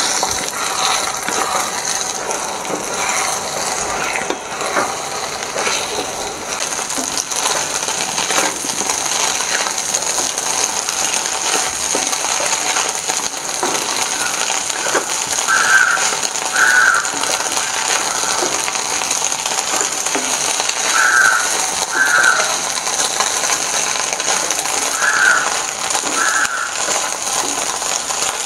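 Okra and egg frying in oil in an iron wok: a steady sizzle, with a spatula scraping and clicking against the pan as the scramble is stirred.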